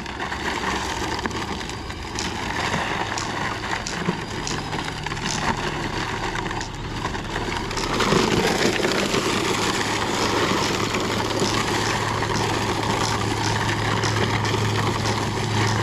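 Electric Traxxas rally RC car driving on dirt: its motor running and tyres scrabbling over the loose surface, with a steady low hum that grows louder about two thirds of the way through.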